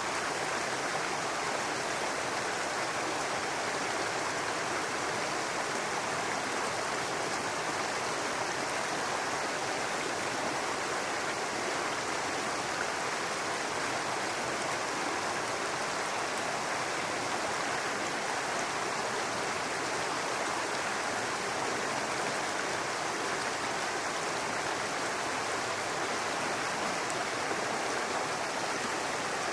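Brook water running over rocks, a steady babbling rush without breaks.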